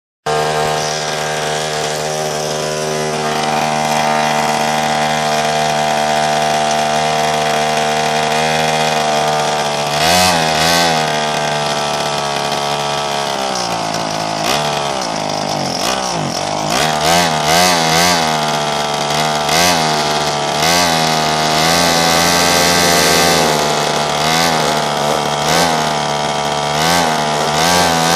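Pocket bike's small two-stroke engine running at a steady pitch, then revving up and down in repeated throttle blips. About halfway through the revs drop low and climb back up.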